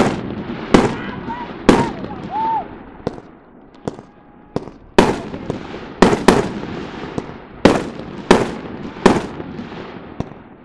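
Fireworks display: aerial shells bursting in a rapid string of about fifteen sharp bangs, one to two a second, each trailing off before the next.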